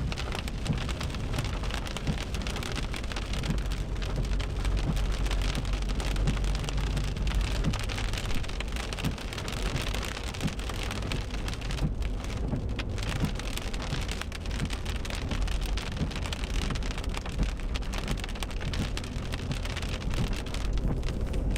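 Heavy rain drumming on a car's roof and windshield, heard from inside the cabin, with a steady low rumble beneath it.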